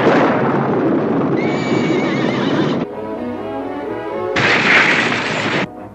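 A horse whinnies amid a loud rush of noise and clattering hooves, over background music. A second, shorter burst of noise comes near the end.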